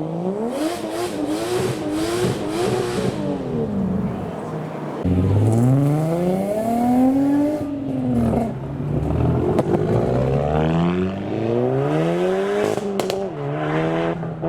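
Modified car engine revving as cars pull away, its pitch climbing and dropping several times, with a few sharp cracks near the end.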